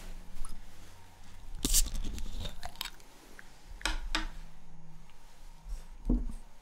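Wet mouth clicks and smacks close to the microphone, a handful of sharp separate ones, from drinking beer.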